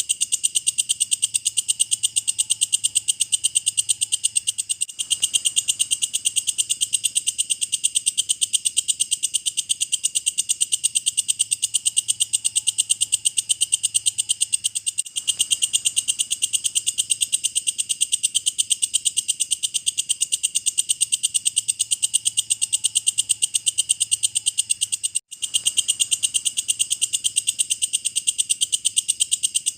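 Walang kecek insect calling: a fast, even train of high-pitched clicking pulses, with a brief break about every ten seconds.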